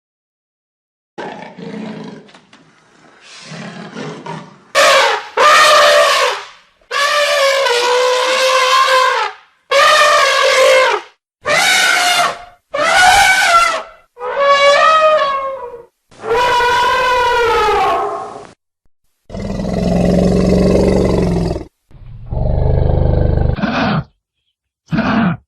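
A series of loud wild animal calls and roars, each one to two seconds long with short gaps between. The middle calls are high, horn-like and bend in pitch; those near the end are lower and rougher.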